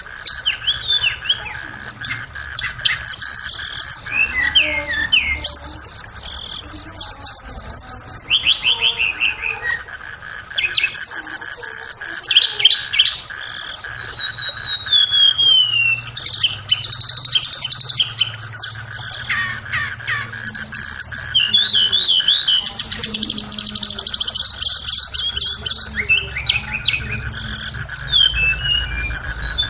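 Tledekan songbirds singing in fast, high trills, ticking runs and falling chirp series, phrase after phrase with a short lull about ten seconds in. A steady high hum runs underneath.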